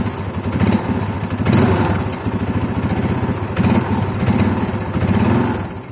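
Toyota Innova's four-cylinder diesel engine idling, a steady low hum with fast even diesel pulsing and a few slight swells.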